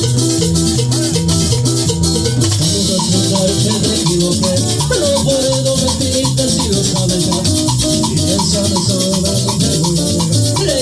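Live tropical dance music without singing: a bass line and a repeated melodic figure over a steady beat, with shakers playing throughout.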